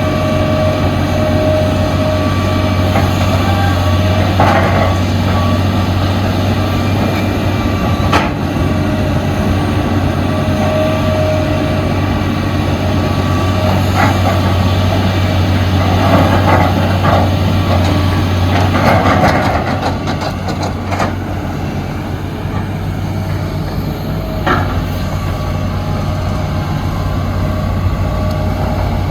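Heavy diesel construction machinery running steadily with a low drone, with a few sharp metallic clanks and short stretches of hiss and rattle from the digging and truck-loading work.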